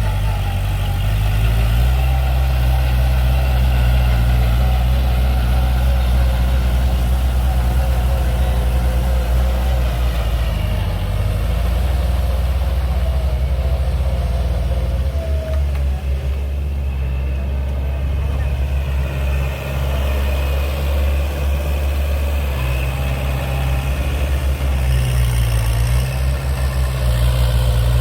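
Kubota tractor's diesel engine running steadily, its pitch stepping down and back up a few times.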